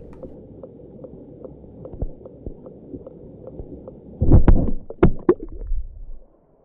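Muffled underwater rumble of a waterfall, picked up by an iPhone lying submerged in the pool, with a row of small regular clicks. About four seconds in come several loud knocks and scrapes as a hand grabs the phone, then the underwater rumble cuts off suddenly near the end.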